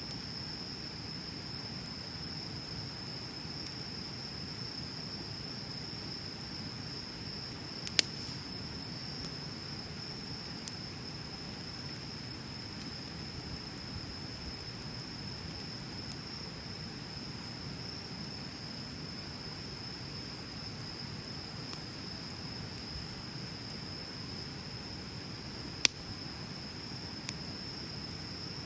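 Wood bonfire burning with a soft, steady rush of flames and two sharp crackling pops, one about a quarter of the way in and one near the end. A steady high insect trill runs behind it.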